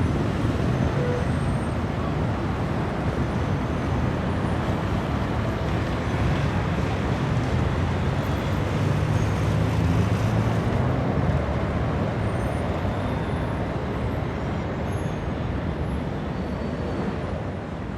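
Busy city road traffic: a continuous wash of car and bus engines and tyres with a steady low engine rumble, easing off a little near the end.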